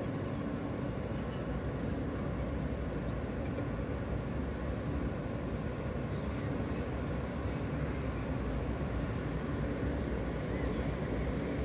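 New York City subway train standing held in the station, its equipment humming steadily with a faint constant high tone above the low rumble. One brief tick about three and a half seconds in.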